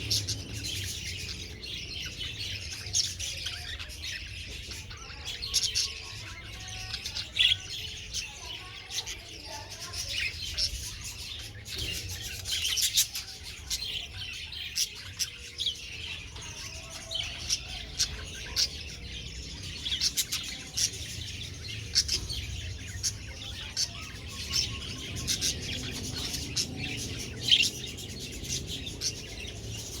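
Budgerigars chirping and chattering nonstop, many short high calls overlapping, over a low steady hum.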